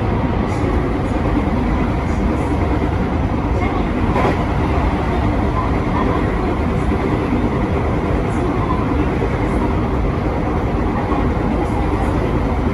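Electric train running steadily along the track, heard from inside the front car: a constant rumble of wheels and running gear with a few faint clicks.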